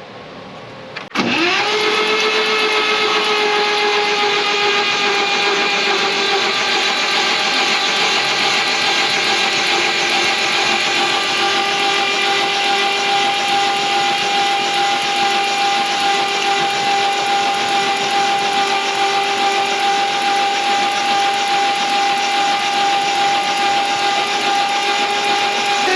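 A machine's motor switches on about a second in, its whine rising quickly to a steady pitch, then running evenly and loudly.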